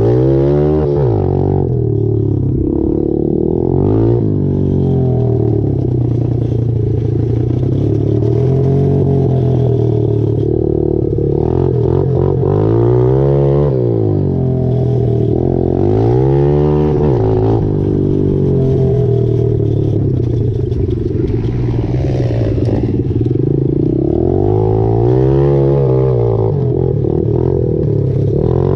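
Pit bike's single-cylinder engine running as it is ridden over a dirt trail, its pitch climbing and dropping back several times as the throttle is opened and shut.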